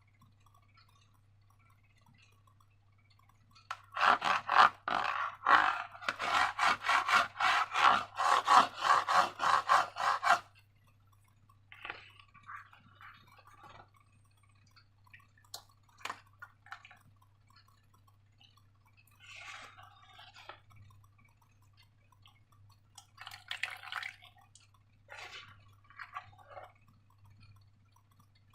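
Slime being worked by hand, with a run of rapid wet, sticky squelching clicks for about six seconds, then occasional softer squishes. A faint steady low hum lies underneath.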